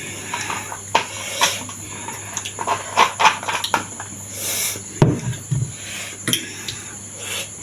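Close-up eating sounds during a meal of momo and thukpa: scattered clicks and clinks of cutlery against a dish, with chewing.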